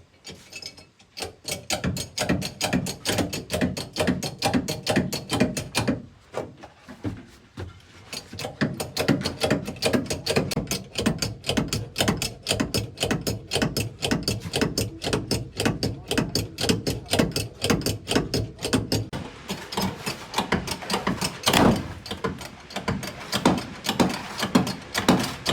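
Ratchet wrench being cranked: a fast, steady run of clicks that pauses briefly about six seconds in, then picks up again and grows louder and denser near the end.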